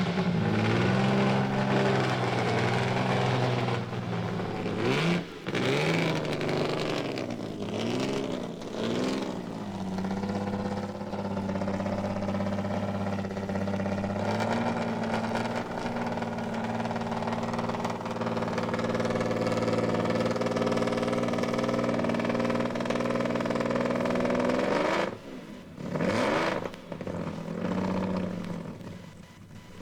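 Mercedes-Benz 3-litre supercharged V12 Grand Prix car running hard: the engine note rises and falls several times in the first ten seconds, then holds a long steady high-revving note that steps up slightly midway. About 25 seconds in it drops away sharply, with a few short bursts of revs after.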